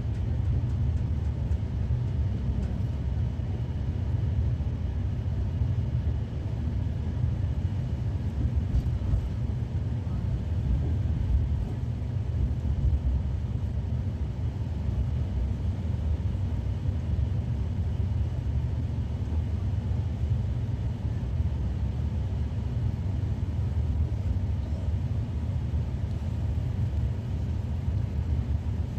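Steady low rumble of an AC double-decker express train rolling slowly along a platform, heard from inside the sealed coach.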